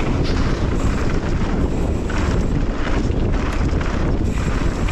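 Wind buffeting an action camera's microphone as a mountain bike descends a trail at speed, mixed with the low rumble of tyres and the rattle of the bike over rough ground.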